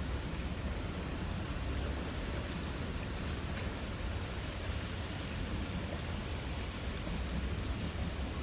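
Light rain falling as a steady hiss over a low rumble, with faint insect chirping high above it.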